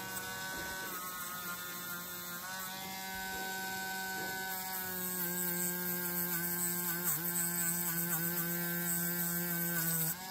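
Small high-speed rotary tool (Dremel) running steadily, polishing the stripped diecast metal; its pitch dips briefly a few times in the second half as it bears on the work, and it cuts off just before the end.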